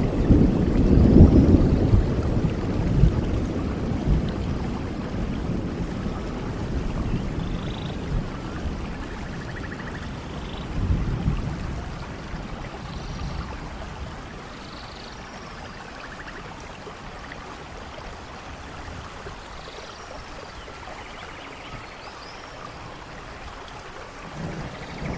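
Rainforest thunderstorm: a long low rumble of thunder that slowly fades away over the first half, over steady rain. A few faint high chirping calls sound through the rain, and another rumble starts building near the end.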